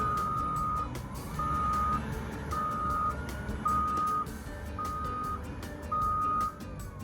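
A vehicle's reversing alarm beeps six times at a steady pace of about one beep a second, over the low rumble of its running engine: the vehicle is backing up.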